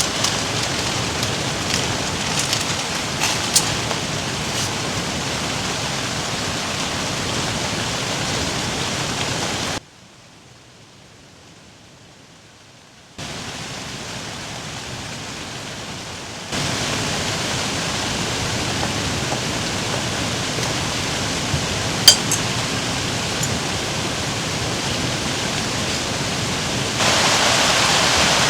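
Steady hiss of rain falling, dropping to a much quieter stretch for about three seconds some ten seconds in, then returning, with a few faint ticks.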